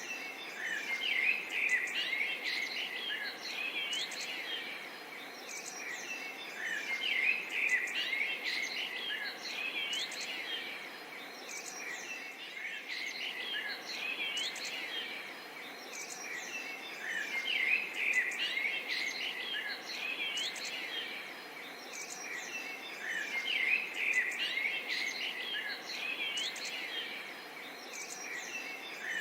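Nature ambience of many birds chirping and calling over a steady hiss of insects. The chorus swells louder and eases off every several seconds.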